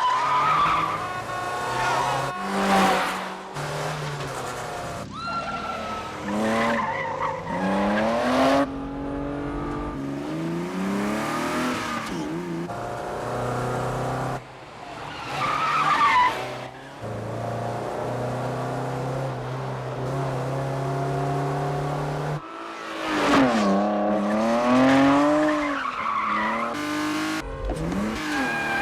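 Car engines revving hard and climbing in pitch through repeated upshifts, with tyres squealing and skidding several times: the BMW 535i and Peugeot 406 of a film car chase.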